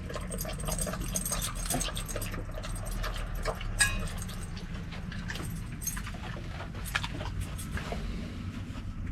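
A dog moving about and panting close by, with small clicks and jingles, over a steady low hum.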